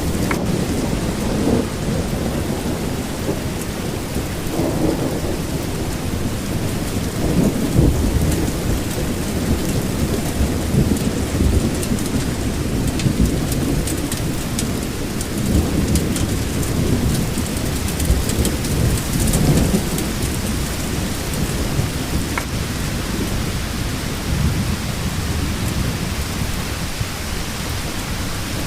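Steady rain with a continuous low rumble that swells now and then, like rolling thunder, and faint patter of drops on top.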